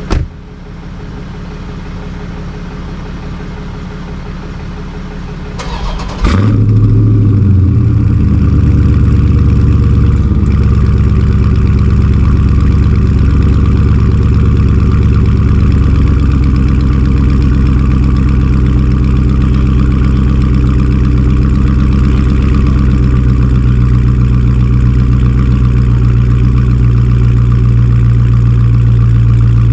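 A Dodge Charger's V8 being started: a brief crank about six seconds in, then the engine catches with a short flare of revs and settles into a loud, steady idle. Before the start a quieter engine hum runs steadily.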